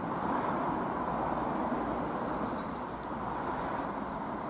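CrossCountry Class 220 Voyager diesel-electric multiple unit arriving slowly round a curve toward the platform, its engines and wheels giving a steady running noise.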